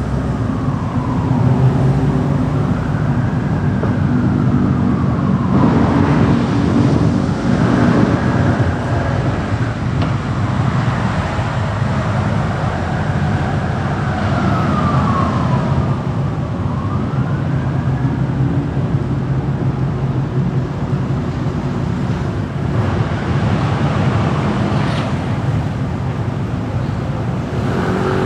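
Steady car road and engine noise while driving in city traffic, with an emergency vehicle's siren wailing, rising and falling in pitch, over most of the first two-thirds before it stops.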